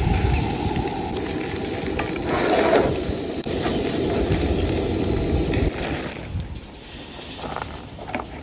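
Food sizzling in a frying pan on a camp stove, with a few light clicks and scrapes; it becomes quieter and duller about six seconds in.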